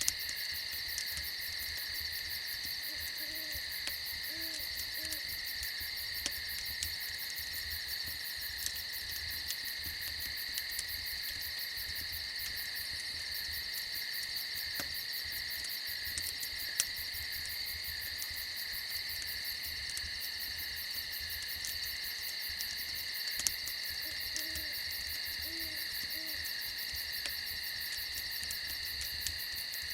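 Steady chorus of crickets with a fast, high pulsing, over which an owl hoots three short notes, once a few seconds in and again near the end. A campfire crackles with an occasional sharp pop.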